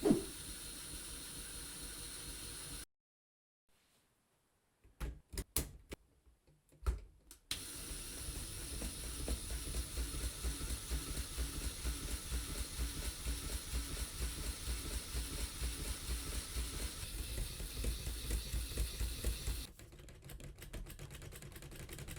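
Lego Technic shaking mechanism: a few separate plastic clicks and knocks, then a long stretch of steady, rapid rattling as its gears drive the shaking, thinning to lighter fast ticking near the end.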